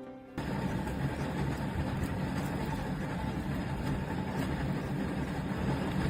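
A steady, noisy, engine-like mechanical rumble that cuts in abruptly about half a second in, heaviest in the low range.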